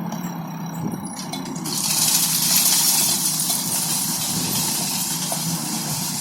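Diesel engine running steadily with a low hum. About two seconds in, a loud hiss comes in on top and continues.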